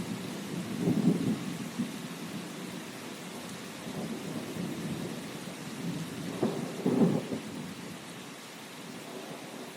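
Steady rain with rolling thunder rumbles, swelling about a second in and again around seven seconds, then easing off near the end.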